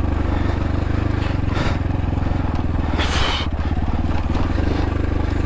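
X-Pro Templar X 250 dirt bike engine running at a low, steady speed on a very steep rocky descent. A short scraping rush comes about a second and a half in and a longer one about three seconds in, as the tyres slide over rock and gravel.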